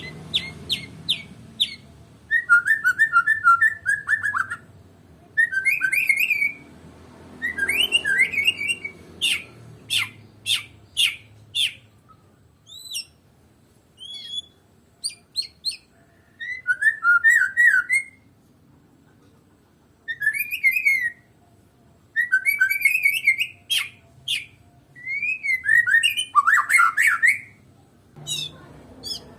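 White-rumped shama (murai batu, Medan type) singing a varied song in phrases of a second or two with short pauses between them. The phrases mix rapid trills, whistled glides and sharp clicking notes.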